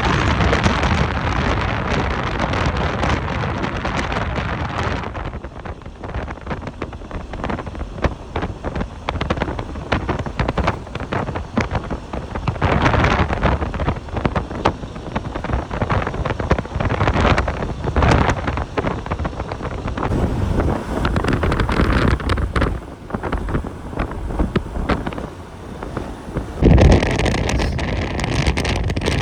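Wind buffeting the microphone over the low rumble of a vehicle driving, rising and falling in gusts. Near the end it jumps louder and a faint steady whine comes in.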